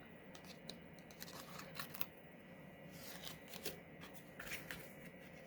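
Faint crinkles and small ticks of release-paper backings being picked and peeled off foam adhesive dimensionals, scattered irregularly through the few seconds.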